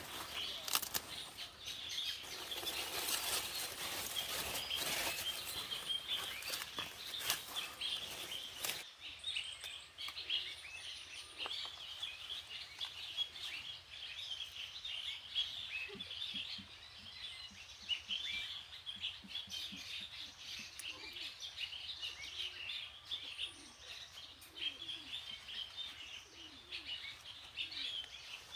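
Small birds chirping over and over. For roughly the first nine seconds they are mixed with rustling and clattering handling noise, which cuts off abruptly.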